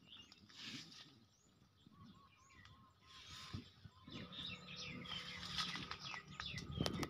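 Faint bird calls and chirps, with a short run of repeated notes about two seconds in and busier chirping in the second half.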